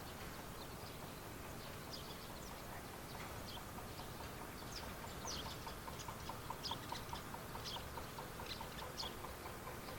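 Outdoor field ambience: small birds chirping here and there with short high calls. From about three seconds in, a faint, even run of short pips on one pitch, about three or four a second, over a steady background noise.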